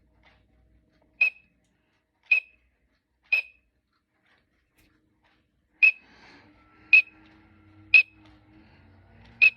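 Green-winged teal calls played through a bird clock's small speaker: short, sharp whistled peeps about once a second, three, then after a pause four more. A faint low hum comes in about six seconds in.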